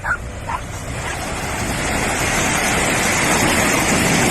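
Steady rushing noise of surf and wind that swells over the first couple of seconds and then holds, with two short higher sounds near the start.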